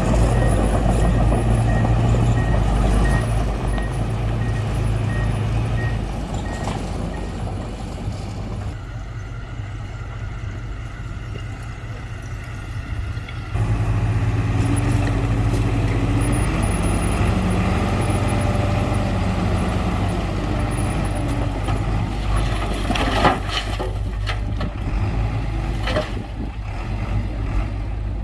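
Diesel engines of heavy earthmoving machinery running, with a repeating beep for the first several seconds that may be a reversing alarm. The sound jumps abruptly louder about halfway through.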